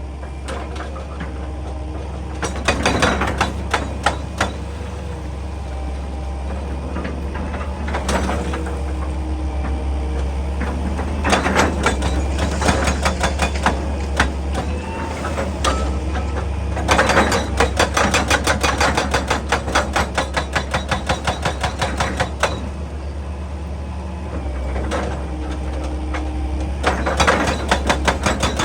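Excavator diesel engine running steadily, with about five bursts of rapid, evenly spaced hammering, typical of a hydraulic breaker chiselling rock.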